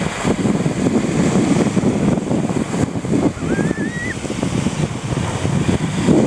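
Strong wind of about 14–16 m/s buffeting the microphone in gusts, over surf breaking on a sandy shore. A short, thin rising whistle sounds about halfway through.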